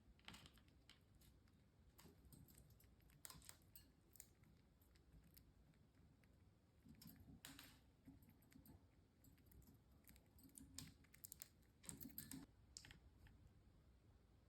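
Faint, irregular light clicks and taps, a few slightly louder ones in quick clusters.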